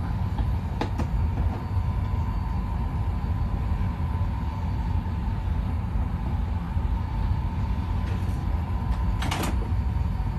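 Shark robot vacuum motor running steadily with a low rumble and a faint steady whine, with a couple of light clicks about a second in and near the end.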